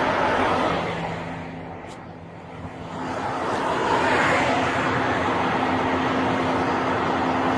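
Steady road and vehicle noise with a constant low hum. It dips briefly about two seconds in, then swells back up.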